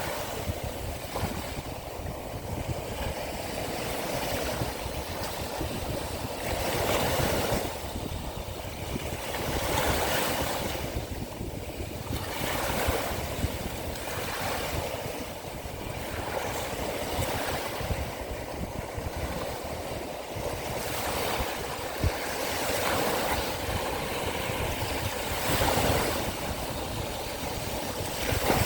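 Sea waves washing onto the shore, the surf swelling and fading every two to three seconds, over a steady low rumble of wind on the microphone.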